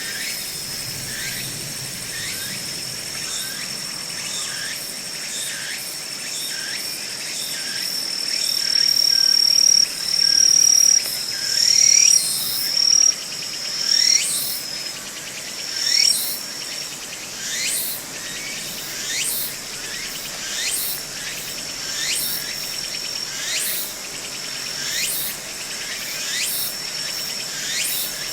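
Insects singing in a forest: one keeps up a steady high-pitched trill while another repeats a short falling call about every one and a half seconds, loudest around the middle.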